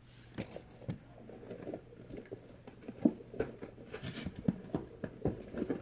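Small fidget toys being handled, picked up and set down as they are counted: a run of light clicks and taps with some rustling, coming more often in the second half.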